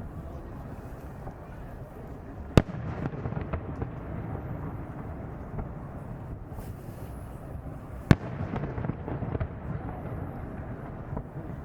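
Aerial fireworks display: two loud shell bursts about five and a half seconds apart, each followed by a scatter of smaller pops, over a steady low rumble of further shells going off.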